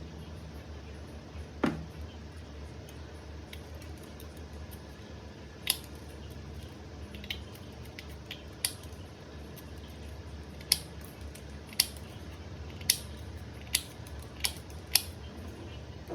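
About ten sharp, short clicks, spaced irregularly roughly a second apart, from work on the nickel strip of an 18650 battery pack, over a low steady hum.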